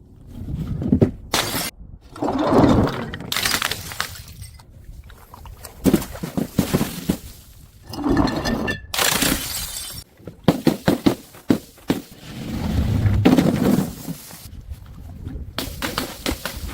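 Glass bottles smashing on stairs one after another: a series of separate shatters, each followed by the clatter of glass shards, with abrupt cuts between them.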